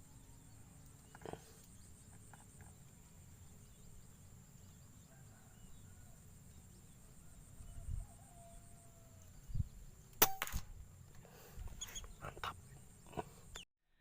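A sharp crack about ten seconds in, then several lighter clicks, over low outdoor background noise and a steady high thin hum.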